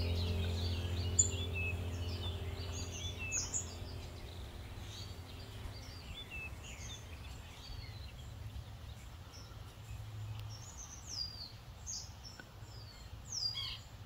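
Wild songbirds chirping and singing outdoors: short quick chirps, then several sharp falling whistles in the second half. Low held notes of background music fade away over the first several seconds.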